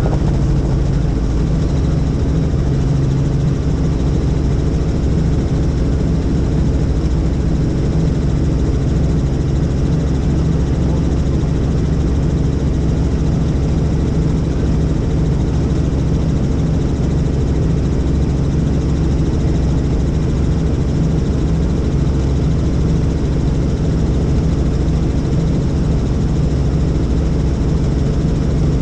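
Helicopter in flight: the steady, loud drone of rotor and engine, a fixed set of low tones over an even rush, unchanging throughout.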